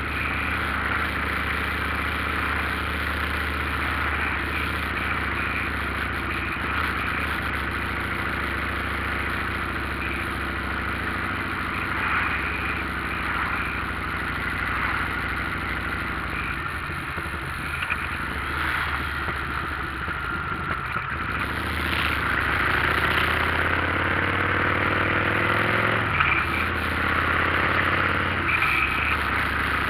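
Motorcycle engine running under way with a steady hum. Past the middle the engine pitch rises for a few seconds, then drops suddenly.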